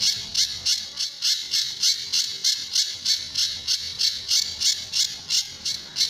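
Pijantur songbird calling a fast, even series of short, high-pitched notes, about three a second: the repeated 'tembakan' burst that keepers use to train other songbirds.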